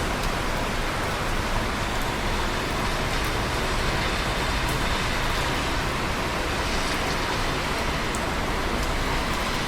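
Steady rain: an even hiss of falling rain with a few faint drop ticks.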